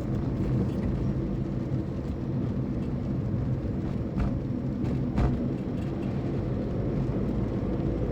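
A moving car's engine and road noise, a steady low drone, with a couple of short knocks about four and five seconds in.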